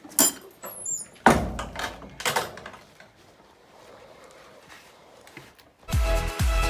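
Several knocks and bangs, the loudest with a deep thud about a second in. Background music with a steady beat comes in near the end.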